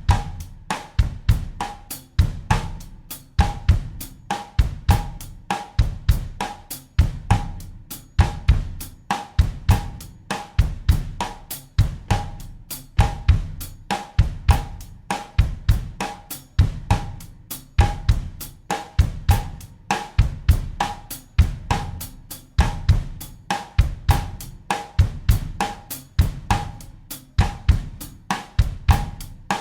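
Acoustic drum kit playing a bossa nova groove at 100 BPM in 4/4, a steadily repeating loop: bass drum pattern, steady hi-hat or cymbal strokes and a recurring rim-click-like knock.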